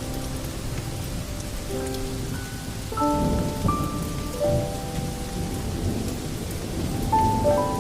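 Steady rain with low rolling thunder, swelling about three seconds in, mixed with soft held melodic tones that shift in pitch every second or so.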